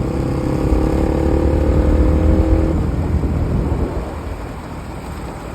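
Bajaj Pulsar NS200 motorcycle engine running on a closed throttle, engine braking on a downhill, over a steady low rumble. A steady engine whine holds for the first two and a half seconds, and the overall sound gets quieter about four seconds in.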